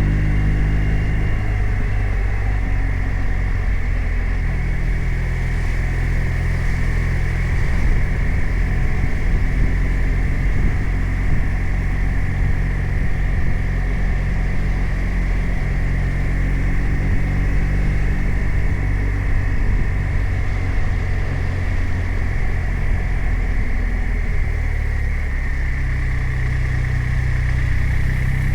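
BMW R 1250 RT's boxer twin engine running as the motorcycle rides along, its pitch dropping over the first couple of seconds, holding fairly steady, then rising near the end.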